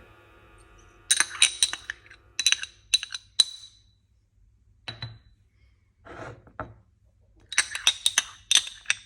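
Kitchen utensils clinking against glass or hard dishware in quick runs of light taps, with a short softer scraping sound in the middle.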